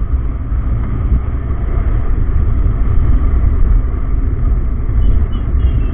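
Riding noise of a Yamaha R15M motorcycle on the move: a steady, low rumble of wind and engine.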